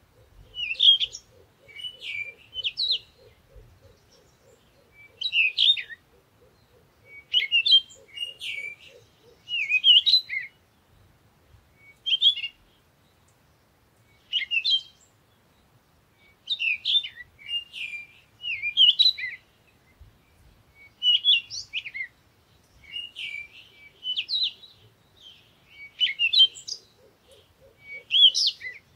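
Small bird chirping and twittering: short clusters of quick, sweeping high notes repeated every second or two, with brief pauses between them.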